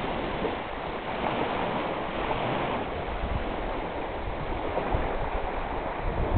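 Wind-driven waves washing on a reservoir: a steady rushing water noise, with occasional low wind buffeting on the microphone, strongest near the end.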